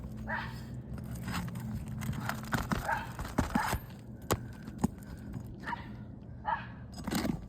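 Tools working under asphalt roof shingles to free them and pull their nails: short scrapes and a few sharp metal clicks, most of the clicks in the middle of the stretch.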